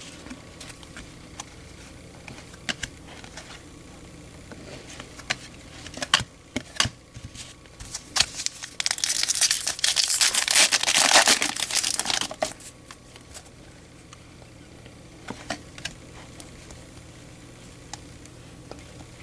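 A foil trading-card pack wrapper being torn open and crinkled for about four seconds in the middle, between scattered light clicks and taps of cards being handled.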